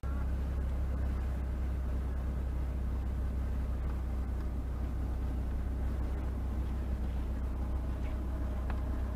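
Steady low rumble of a moving car's engine and road noise, with no distinct impacts.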